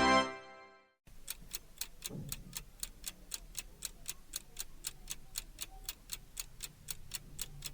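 A clock ticking steadily, about four even ticks a second, starting just after a second in. It is preceded by the fading tail of a keyboard chord in the first half second.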